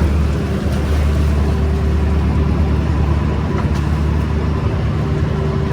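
A fishing boat's engine running steadily with a low drone, over a haze of water and wind noise.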